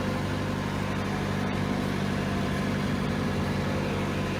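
An engine idling: a steady low hum with several even tones that does not change.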